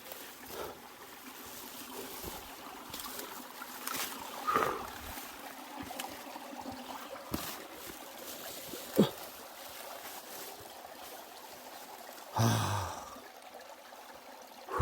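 Mountain stream water trickling steadily, with a few short sharp knocks, the loudest a click about nine seconds in and a heavier thud about twelve seconds in.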